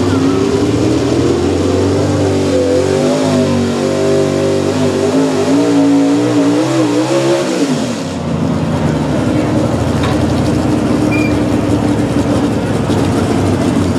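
Pulling truck's engine at full throttle under load, its pitch climbing and then wavering up and down, falling away sharply about eight seconds in as the throttle comes off, then running lower and steady.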